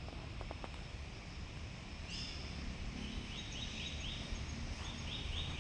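A bird calling in the background: a run of short, high, falling notes repeated about three times a second, starting about two seconds in, over faint outdoor noise.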